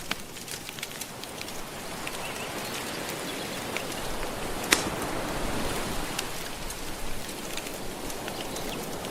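Soft ocean waves washing steadily, layered with a wood fire crackling in scattered small pops, with one louder pop about halfway through.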